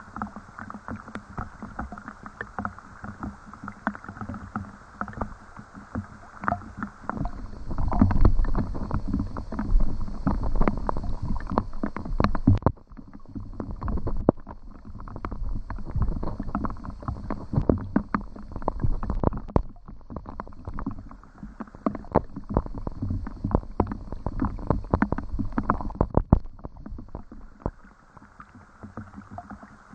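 Rain falling, with many irregular drips and splashes over a steady wash of water sound. It grows louder and fuller about seven seconds in, drops off abruptly around thirteen seconds, swells again, and eases near the end.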